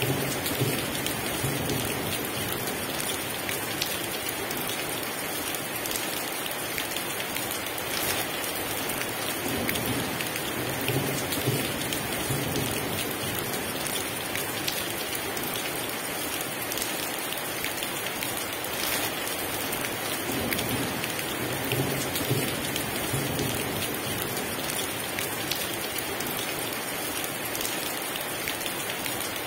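Heavy rain pouring steadily, with low rumbles of thunder rising and fading now and then.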